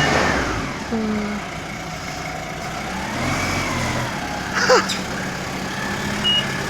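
Forklift engine running, with a whine that rises and falls over the first few seconds; its reversing beeper starts again near the end.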